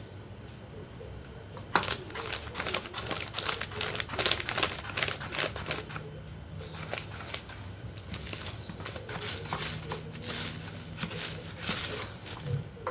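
Kitchen knife chopping carrots on a cutting board: a run of quick, irregular knocks that starts about two seconds in and keeps going.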